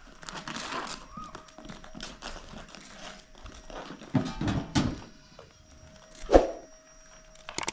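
Irregular knocks and thumps from things being handled, the loudest a cluster about four seconds in and one more a little after six seconds, over a faint steady hum.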